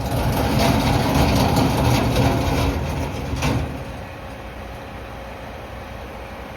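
Mack MRU McNeilus front-loader garbage truck's diesel engine running loud with mechanical clatter for about four seconds, a clunk near the end of it, then dropping back to a steady idle.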